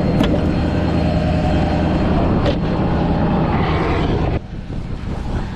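Tow truck engine idling steadily close by, with two short sharp clicks; the engine sound drops off abruptly about four seconds in.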